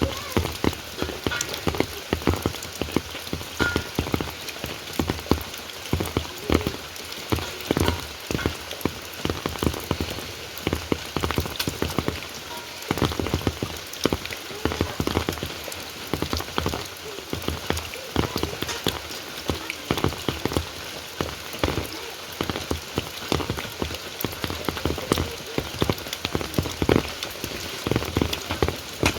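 Heavy rain falling on a surface, with dense, irregular drops and drips striking close by as sharp taps and dull thuds over a steady hiss.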